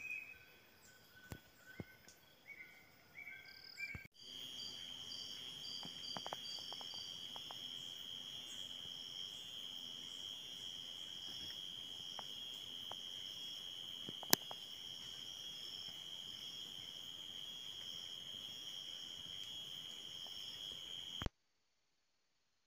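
Forest insect chorus: a steady high-pitched buzzing drone with scattered faint clicks and rustles and one sharp click partway through, cutting off suddenly near the end. In the first few seconds, before the drone starts, the night forest is quieter, with a few short faint whistled notes.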